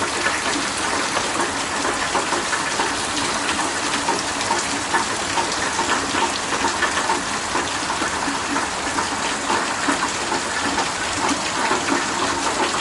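Heavy rain falling steadily, with dense pattering drops and running water gushing.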